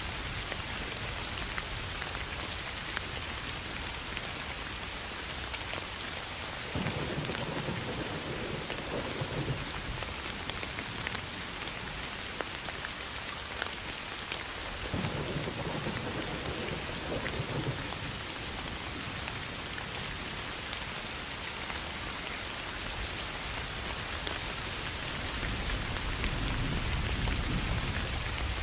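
Soft, steady rain falling on grass, an even hiss with scattered drop ticks. Thunder rumbles low three times: it starts suddenly about seven seconds in, comes again about fifteen seconds in, and swells up near the end.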